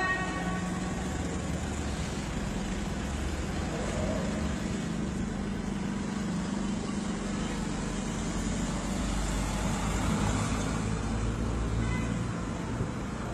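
Steady outdoor city background noise: traffic and general street ambience.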